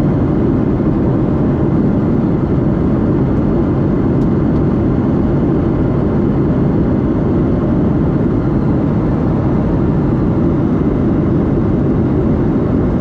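Steady low rumble and rush of a Boeing 737-8's CFM LEAP-1B jet engines and airflow, heard from inside the cabin close to the engine, loud and unchanging throughout.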